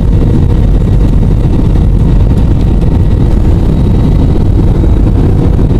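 Steady, loud drone of an airliner's engines and airflow heard inside the cabin in flight.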